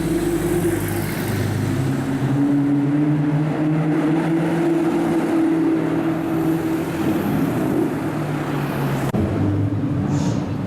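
Car engine running steadily at low revs over street traffic noise, with an abrupt cut to a different car sound about nine seconds in.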